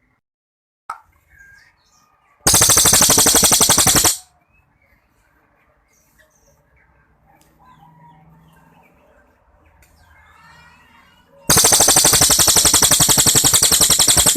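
Cililin songbird giving two long, very loud, rapid rattling trills (the 'long shot' burst prized by bird-song keepers), one of about a second and a half and one of about three seconds. Faint chirps fall in the gap between them.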